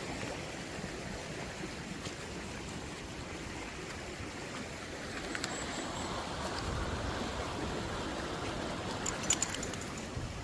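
A woodland stream running steadily over its bed, with a few light clicks near the end.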